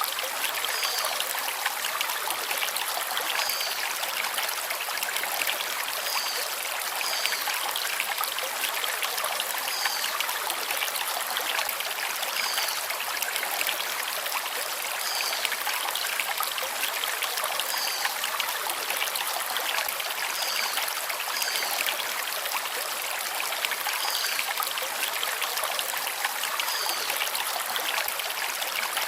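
Stream water flowing over stones, a steady rushing and trickling. A bird gives a short high chirp every second or two.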